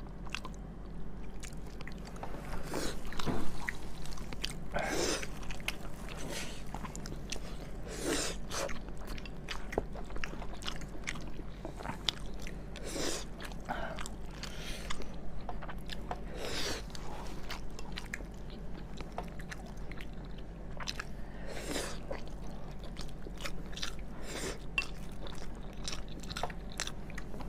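Close-miked mouth sounds of a person eating: chewing and biting in irregular bursts every second or two.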